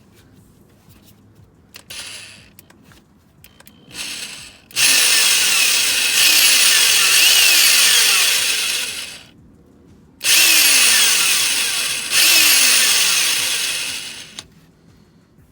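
Power drill running in long loud bursts, drilling into a broken exhaust manifold bolt snapped off in the cylinder head: a couple of short blips, then one run of about four seconds and two shorter runs after a brief pause, the motor's pitch sagging under load.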